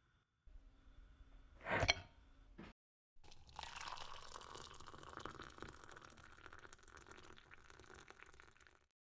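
A brief knock about two seconds in, then hot water poured from a metal kettle into a ceramic mug for about five seconds, strongest at the start of the pour and tapering off near the end.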